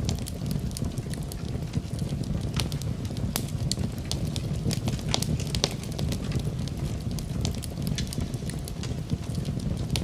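Wood fire burning in a fireplace: a steady low rumble of flame with frequent irregular crackles and pops.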